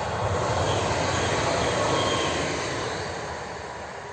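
Electric multiple unit passenger train passing at speed. The rolling noise swells to its loudest about two seconds in, then fades as the train moves away.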